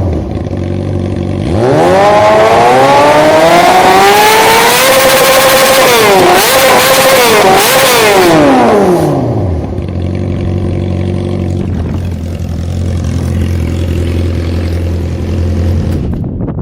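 Kawasaki ZX-25R's 250 cc inline-four engine through an Arrow racing exhaust, revved in place: it drops to idle, then climbs steadily to a high-pitched scream held for a few seconds with two short dips. It falls back to a steady idle for the rest of the time.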